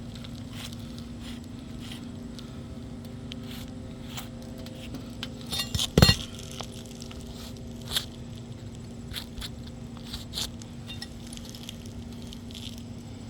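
Scattered light clicks and scrapes of handling on asphalt roof shingles, with a quick run of clicks ending in one sharp knock about six seconds in and a couple of smaller knocks later, over a steady low hum.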